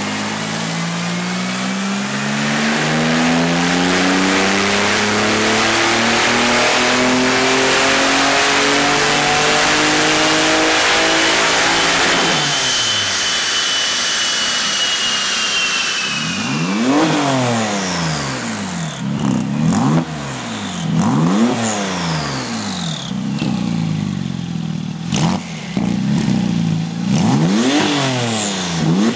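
Porsche 997 Turbo twin-turbo flat-six through a muffler-delete exhaust with high-flow cats. The engine makes one long climb in revs that falls away about twelve seconds in, then gives about five quick throttle blips, each followed by a high whistle falling away.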